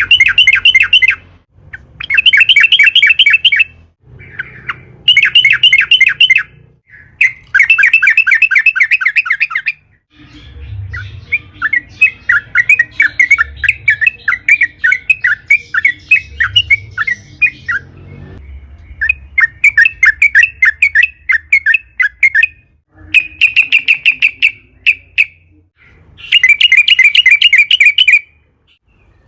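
Sooty-headed bulbul (trucukan) singing a string of fast, rattling phrases of a second or two each, with a longer run of chattering notes in the middle.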